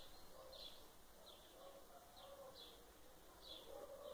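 Near silence with a bird chirping faintly in the background: short falling chirps, roughly every half second.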